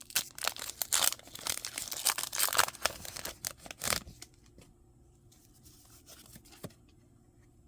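Foil wrapper of a Pokémon card booster pack being torn open and crinkled for about four seconds, then quiet with a single light tap.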